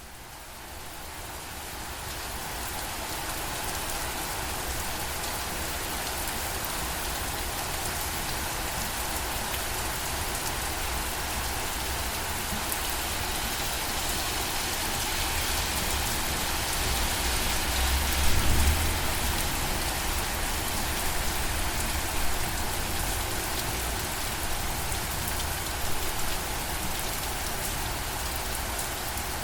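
Steady rainfall, a dense even patter, swelling in over the first couple of seconds. A brief low rumble comes about two-thirds of the way through.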